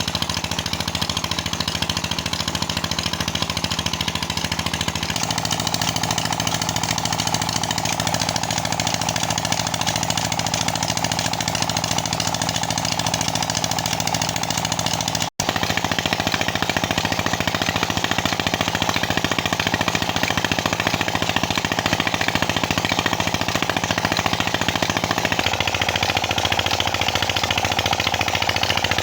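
Petter single-cylinder diesel engine running steadily to drive a tubewell pump, with a fast, even chugging beat; the sound drops out for a split second about halfway through.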